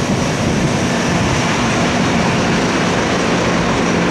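Freight train of open coal wagons rolling past on the rails and drawing away: a steady rumble and rush of wheels on track, with a faint low hum.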